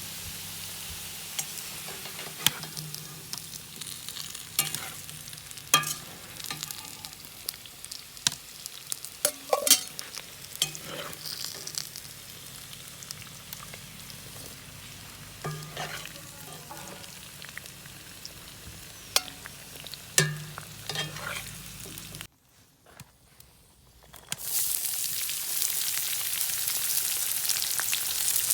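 Food frying in hot oil in a kazan, a steady sizzle with sharp scraping clicks of a utensil stirring against the pot. About 22 seconds in the sound drops to near silence for two seconds, then a louder, hissier sizzle follows.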